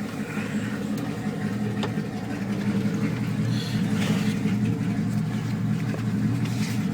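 2001 Dodge Ram's 318 (5.2 L) V8 idling through stock cast-iron manifolds and straight pipes with no catalytic converters or mufflers, giving a loud, rough exhaust note. It rises a little in loudness about three seconds in.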